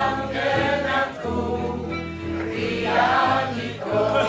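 A choir singing with sustained, shifting chords over steady low accompanying notes, without clear words.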